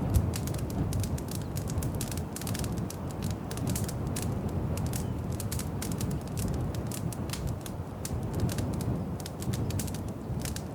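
Wood fire crackling in a fireplace: a steady low rumble of flames with dense, irregular small pops and snaps from the burning logs.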